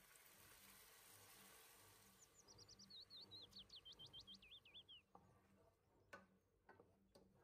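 Faint kitchen sounds: a soft sizzle as crushed tomatoes go into the hot pan, then a songbird nearby sings a quick run of chirps that falls in pitch for about three seconds, and near the end a few light clicks of a wooden spoon against the pan.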